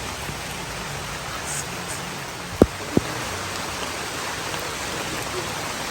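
Steady rain falling. About halfway through there are two sharp knocks, less than half a second apart.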